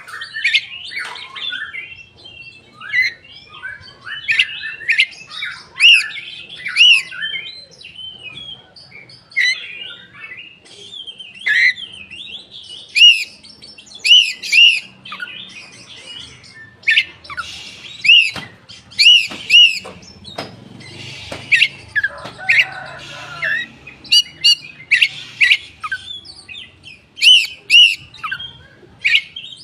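Several koci birds calling together, a dense chorus of short, loud arching chirps, often in twos and threes and overlapping. It is a crowd-song lure recording meant to set a silent or reluctant koci singing.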